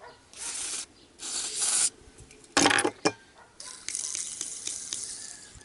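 Short hissing bursts, like an aerosol can being sprayed onto parts of a heater blower motor during a bearing service. About two and a half seconds in comes a sharp clatter of a metal part being handled, then a click. A longer hiss follows and fades.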